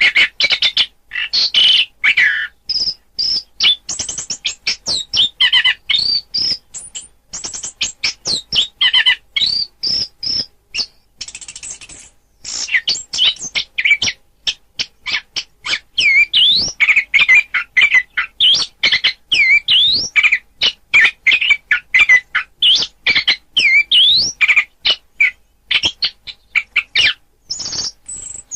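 Songbird song of an Indonesian masteran recording, mixing orange-headed thrush and wambi song: a fast, unbroken run of sharp chips, trills and rising and falling whistled notes. There is a short lull about eleven seconds in.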